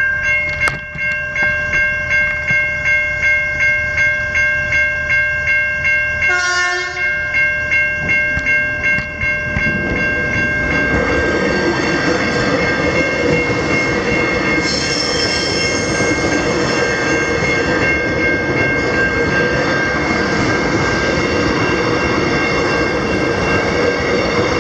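Level crossing warning bells ringing, about two strokes a second. A short train horn blast sounds about six seconds in. From about ten seconds in, a Melbourne metro electric train passes over the crossing, and its rumble and wheel noise cover the bells, which keep ringing underneath.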